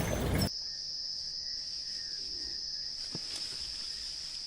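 Crickets chirring in a steady, high-pitched chorus, with a faint knock about three seconds in. For the first half second a low vehicle rumble sits under it and cuts off suddenly.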